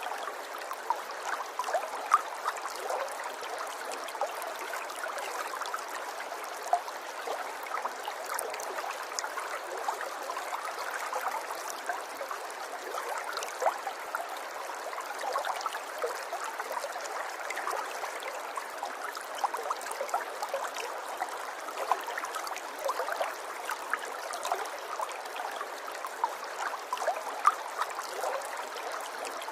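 River water flowing: a steady rush with many small splashes and drips scattered through it.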